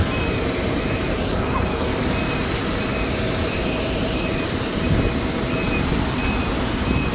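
Jet airliner turbine running steadily: a loud even rush with a high continuous whine on top.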